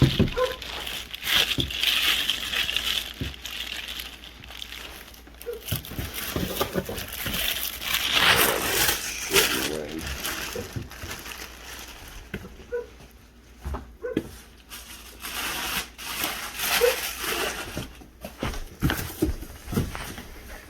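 Packaging being handled and unwrapped from a boxed alternator: irregular crinkling and rustling with scattered small knocks and taps.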